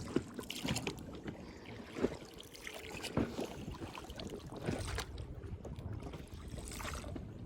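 Small boat on the water: irregular light knocks and water movement against the hull, over a steady low rumble.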